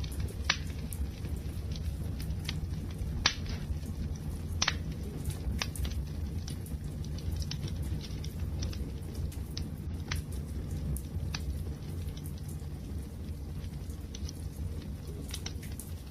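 Wood fire crackling, with scattered sharp pops over a steady low rumble of the flames; the three loudest pops come in the first five seconds.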